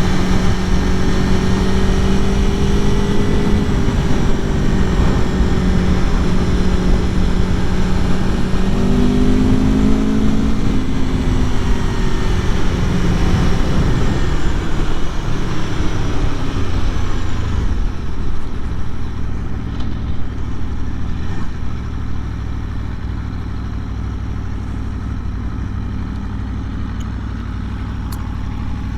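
2021 Aprilia Tuono Factory's V4 engine pulling under throttle while riding, its note rising and falling with the revs over a rush of wind noise. About two-thirds of the way through it backs off to a quieter, low steady rumble.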